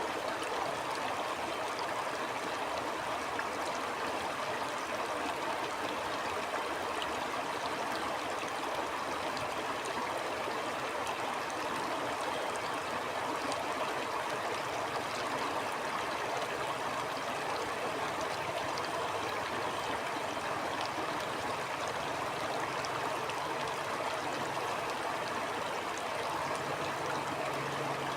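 Shallow stream flowing steadily over rocks, a constant rushing with fine splashes and trickles.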